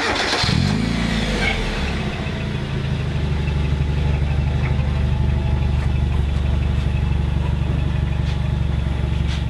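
1991 Mazda Miata's 1.6-litre four-cylinder engine starting through a Borla cat-back exhaust. It catches with a short rise in revs within the first second, then settles to a steady idle.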